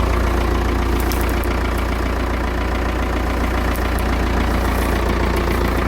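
1978 Ebro Super 55 tractor's diesel engine running steadily at a constant speed.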